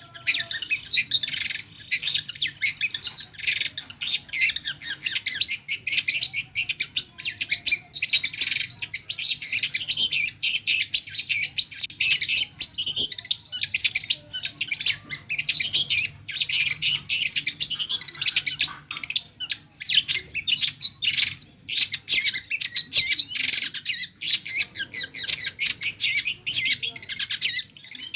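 Long-tailed shrike singing almost non-stop: a fast, dense run of varied chirps and calls packed with mimicked songs of other birds, with only a few brief pauses.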